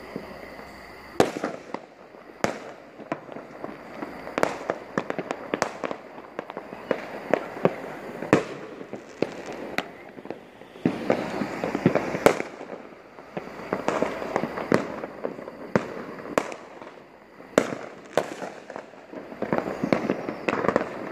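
New Year's Eve fireworks going off: an irregular string of sharp bangs and cracks over a continuous crackle, thickening into dense crackling runs midway and again near the end.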